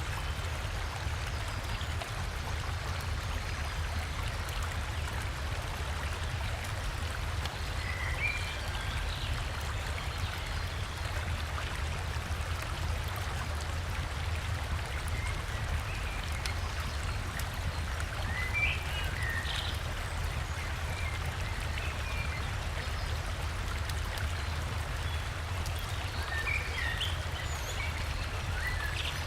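Steady rushing of a river and waterfall with a deep low rumble, with a few short bird chirps every several seconds.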